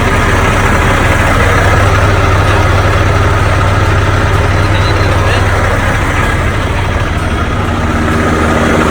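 Heavy diesel truck engine running steadily with a low, even hum and no change in speed.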